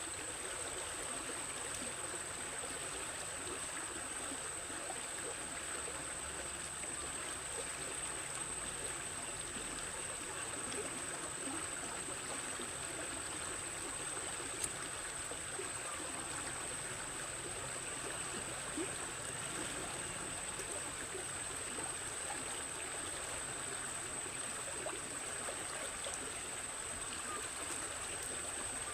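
Water running steadily in a stream, with a thin, steady high-pitched tone over it.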